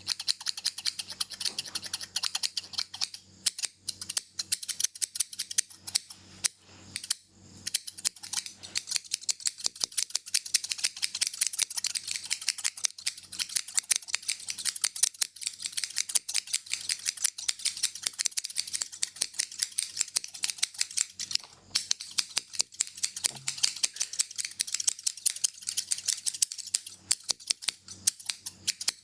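Hair-cutting scissors snipping rapidly and steadily close to the microphone, many crisp snips a second with a few brief pauses.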